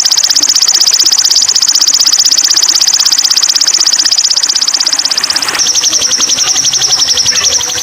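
A high, very rapid pulsing trill from a bird-training (masteran) recording of songbird calls. It changes abruptly to a slightly higher, thinner trill about five and a half seconds in.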